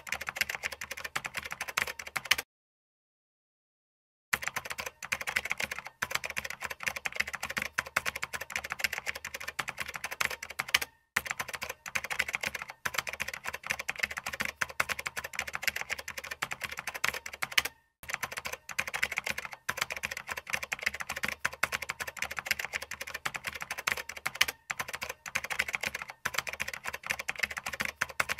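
Rapid keyboard typing sound effect: a dense, fast stream of key clicks. It stops for about two seconds a few seconds in, then runs on with a few brief dropouts.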